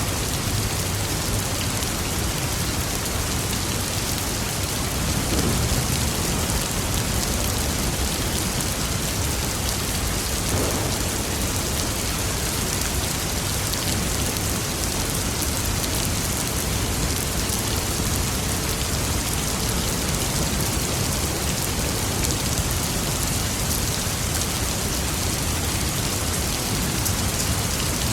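Steady heavy rain pattering on surfaces, with low thunder rumbling faintly in the background, swelling briefly about five seconds in and again near the end.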